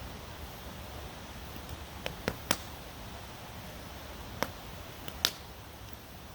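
Campfire crackling, with sharp wood pops: three in quick succession about two seconds in, then a few more between four and five seconds. A steady stream rushes underneath.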